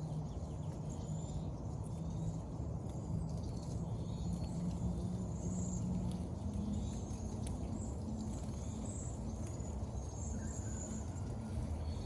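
Small birds chirping in many short high calls, scattered throughout, over a steady low rumble with a faint hum.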